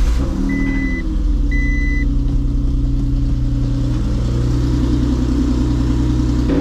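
Honda NSX's swapped-in J-series V6 running just after starting, settling into a steady idle; the engine has a rod knock. A car's warning chime beeps three times in the first two seconds.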